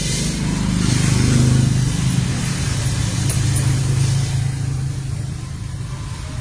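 A motor's low, steady drone that swells about a second in, then holds and slowly eases off.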